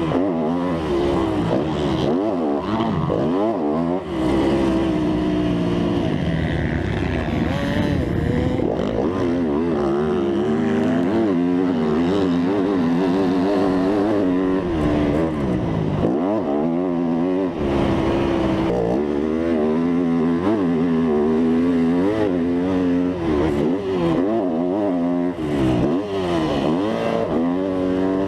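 Dirt bike engine revving hard and easing off over and over, its pitch climbing and dropping with throttle and gear changes as it is ridden around a motocross track.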